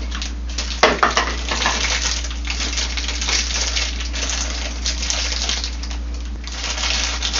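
Hands handling parts and packaging: continuous rustling and scraping with small clicks, and a sharp knock about a second in.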